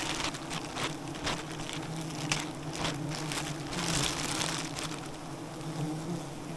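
Wild honeybees buzzing as a swarm, a steady low hum throughout. Over it come repeated sharp crackles and a stretch of rustling about four seconds in.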